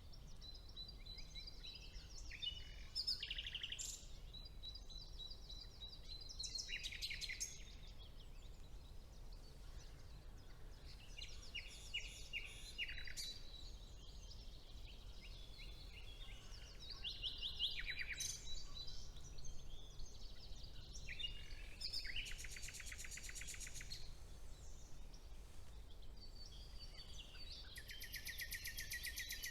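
Songbirds singing in a spring woodland: one varied song phrase after another, several of them fast trills of rapidly repeated notes, over a faint steady low hum.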